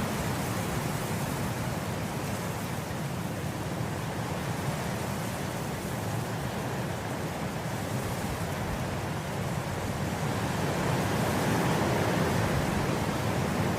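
Wind blowing through grass: a steady, even rushing that swells a little in the later part.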